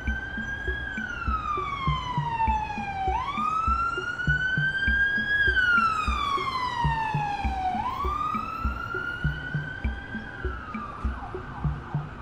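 A wailing siren, its pitch rising quickly and then falling slowly in cycles of about four and a half seconds, over background music with a steady beat. Near the end the siren levels off and fades.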